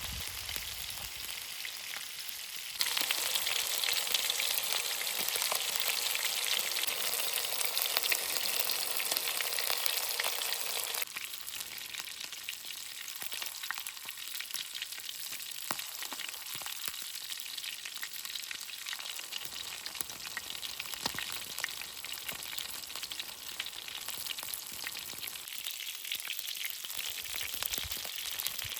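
Food frying in a pan over a campfire: a steady sizzle with scattered small crackles. It gets suddenly louder about three seconds in and drops back suddenly about eleven seconds in.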